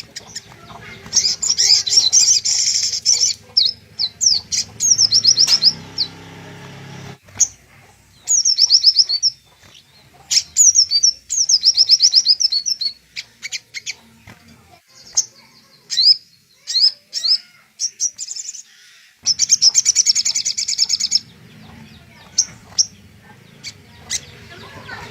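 Crimson sunbird (sogok ontong) singing: bursts of very fast, high trilled notes lasting a second or two, with short sharp chirps scattered between them.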